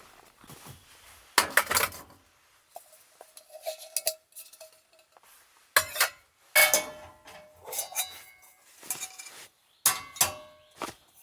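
Metal objects knocking and clinking together, about seven separate strikes, several leaving a short ringing tone: hard camping gear such as cookware or utensils being handled.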